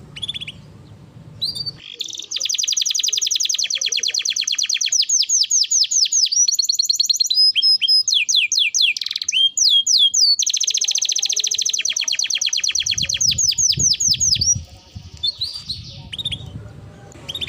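Domestic canary singing a long rolling song. About two seconds in it breaks into very fast trills of repeated notes, changes phrase midway, and rolls again before dropping back to scattered chirps near the end.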